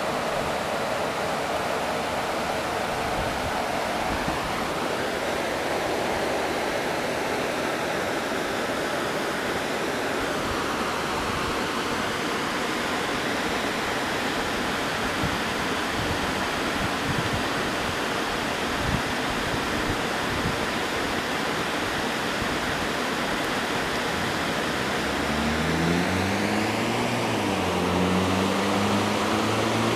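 Heavy rain pouring steadily, a dense even hiss. In the last few seconds a low pitched sound comes in over it, rising and falling in pitch.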